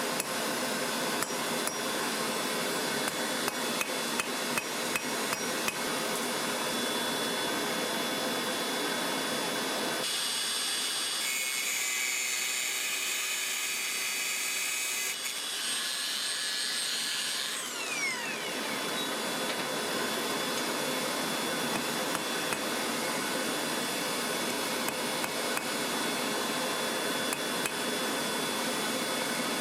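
Blacksmith's hand hammer striking hot steel on an anvil, a quick run of irregular blows, several a second. The hammering gives way to a steadier, ringing sound for several seconds in the middle, then starts again.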